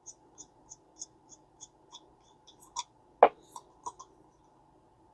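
Garcia Mitchell 410 spinning reel, fitted with a Mitchell 300 spool, clicking evenly about three times a second as it is worked by hand, then a few sharper clicks and one louder knock a little past three seconds.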